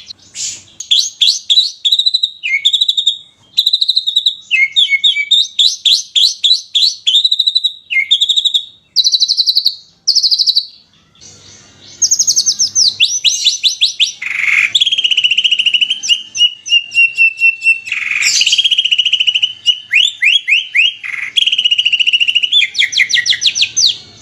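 Songbirds singing fast, sharp, high chirps and trills in quick-fire phrases, broken by a short pause about halfway. In the second half, rapid trills alternate with a steadier held whistle.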